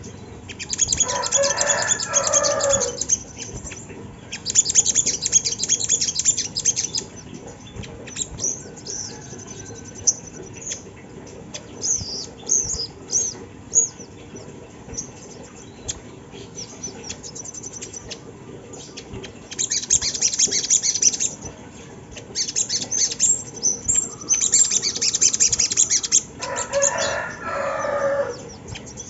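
Ruby-cheeked sunbird (sogon) singing: bursts of rapid, very high-pitched twittering a few seconds long, separated by pauses with scattered single chirps. Near the start and again near the end, a lower descending chatter sounds with the twitter.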